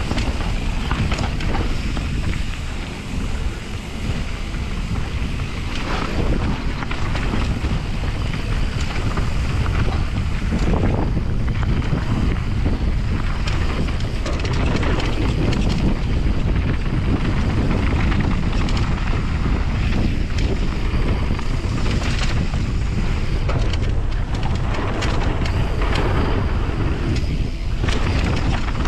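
Heavy wind buffeting the camera microphone on a downhill mountain bike riding down a trail, with tyres rumbling over dirt and frequent clattering knocks from the bike going over rough ground.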